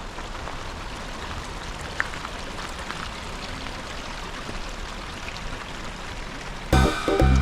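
Steady rush of running water, an even hiss with no rhythm. Music cuts in abruptly near the end.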